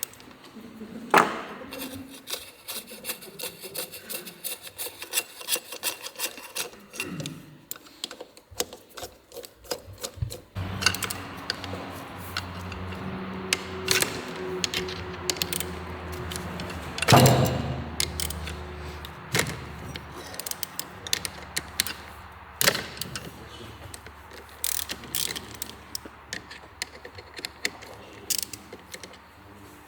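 Hand tools at work on a small motorcycle engine: a ratchet wrench clicking in quick runs, with scattered metal knocks and clinks. A steady low hum sets in about a third of the way through.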